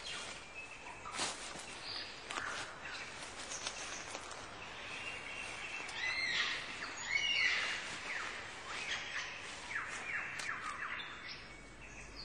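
Several birds calling and whistling at once, with many short chirps and sliding whistles, the calls busiest and loudest about halfway through.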